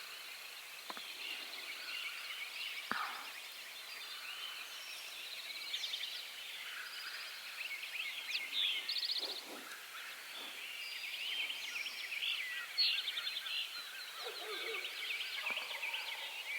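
Dawn chorus of many small songbirds chirping, trilling and warbling, with a few faint low knocks.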